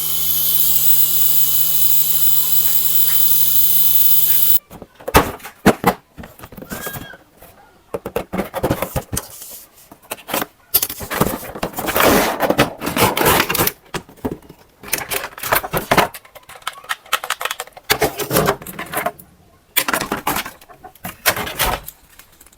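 A toy RC helicopter's small electric motor and rotor running with a steady whine, which cuts off suddenly about four and a half seconds in. After that come irregular bursts of rattling, clicking and rustling from toys and packaging being handled.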